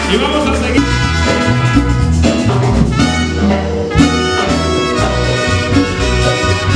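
Band music led by brass horns over a pulsing bass line.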